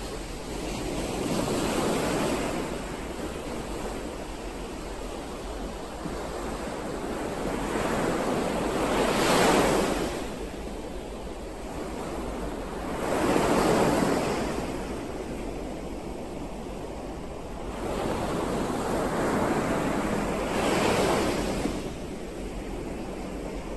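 Ocean waves breaking on the shore: four waves in turn, each swelling up into a rush of surf and then easing back.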